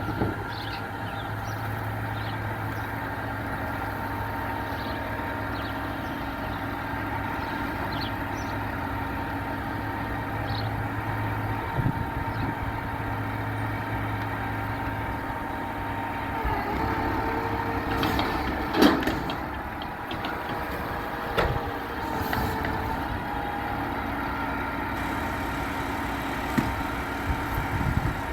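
Garbage truck engine idling steadily, with a few sharp clanks; a short rising whine about 17 to 19 seconds in ends in the loudest bang.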